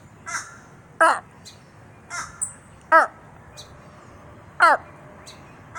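Raven calling about five times: short, loud caws, each dropping in pitch at the end, with irregular gaps between them.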